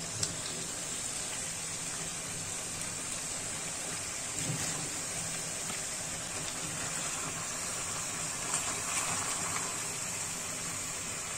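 Chicken, onions and green chillies sizzling steadily in oil in a stainless steel kadai, with a couple of soft knocks as whole tomatoes are set into the pan.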